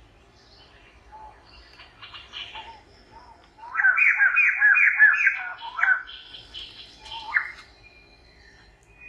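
A bird calling: a quick run of about seven repeated chirping notes starting a little under four seconds in, then a few scattered single chirps.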